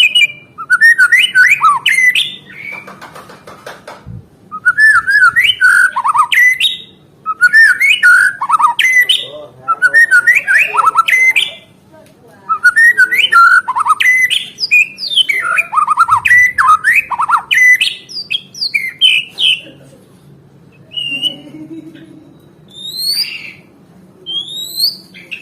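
White-rumped shama (murai batu) singing at full volume: repeated phrases of rich, rapidly varied whistled notes, each about two seconds long with short pauses between. Near the end the song thins to a few single whistles that rise sharply in pitch.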